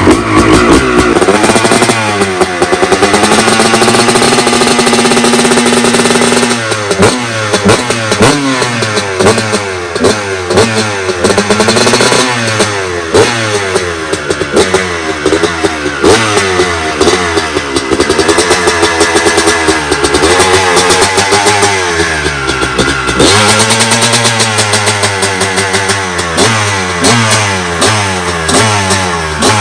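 Honda CR250 single-cylinder two-stroke engine being ridden hard. Its pitch climbs and holds for a few seconds, then rises and drops again and again as the throttle is worked and gears are changed.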